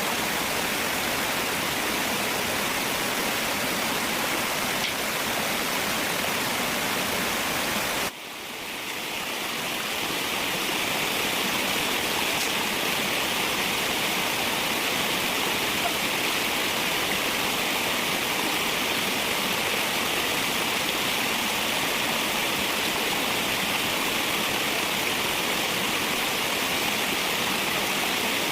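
Steady rushing of flowing water from a stream. About eight seconds in it cuts out briefly, swells back in, and then sounds brighter and hissier.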